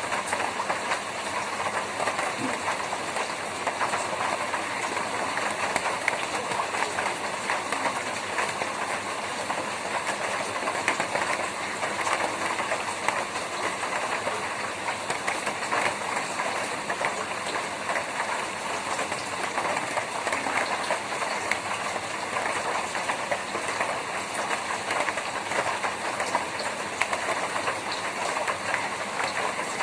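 Rain falling on a tin roof: a dense, steady patter of countless small drop hits on the metal.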